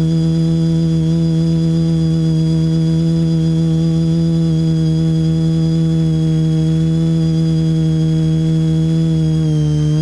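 Quadcopter's electric motors and propellers droning at a steady pitch over a low rushing noise, the pitch dipping briefly near the end as the throttle eases.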